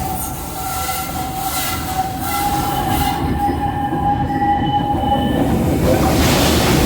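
Walter E. Disney steam locomotive running along the track: a steady low rumble of the engine and wheels, with a long steady high squeal that stops about five seconds in and a hiss that grows louder near the end.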